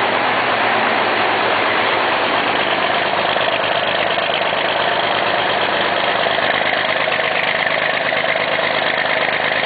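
John Deere 4320 tractor's six-cylinder diesel running steadily at idle with a clattery diesel sound, still warming up after a cold start.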